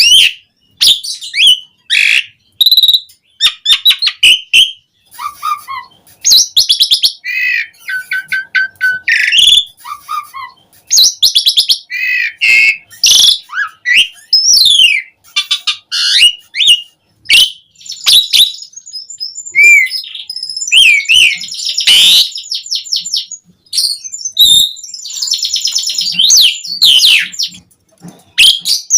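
Asian pied starling (jalak suren) singing a long, varied song of whistles, sliding notes, rapid rattling trills and harsh chatter in quick succession.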